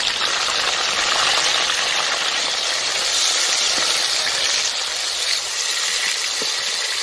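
Chopped tomatoes and green chillies sizzling in hot oil with browned onions, stirred with a wooden spatula; a loud, steady hiss.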